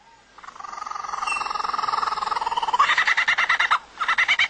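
Laughing kookaburra call: a soft rapid chuckle that builds into loud, fast cackling about three seconds in, with a brief break near the end.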